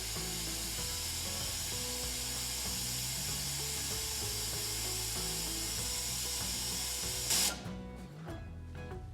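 Espresso machine's hot-water spout running into a pot with a steady hiss. It cuts off about seven seconds in with a short louder burst. Background music plays underneath.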